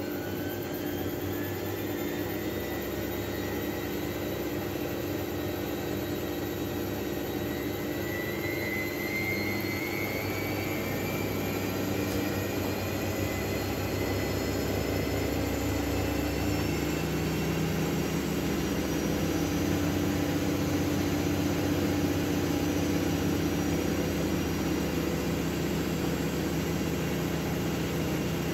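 Miele W433S front-loading washing machine spinning its drum, loaded with cuddly toys and pillows. The motor whine rises in pitch over the first ten seconds or so as the spin speeds up, then runs steadily over a constant hum.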